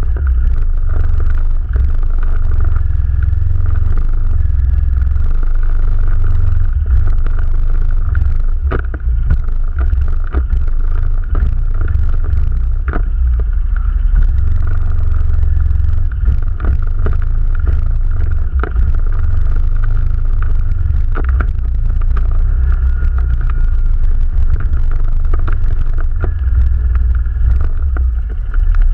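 ATV running while being ridden: a steady low rumble with a constant whine over it, and frequent short knocks and rattles.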